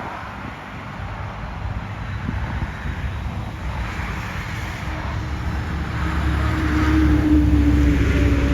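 Jet airliner approaching: a low engine rumble that grows steadily louder, with a steady hum coming in about halfway through.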